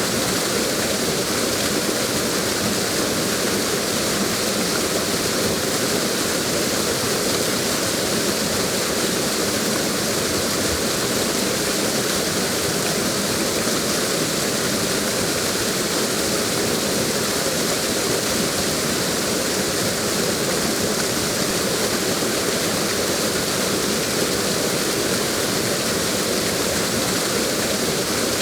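Waterfall running: a steady, unchanging rush of falling water.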